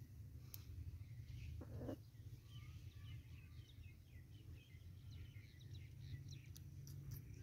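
Small birds chirping faintly: a busy run of short, high chirps from about two and a half seconds in, over a steady low rumble. A few sharp clicks come near the end.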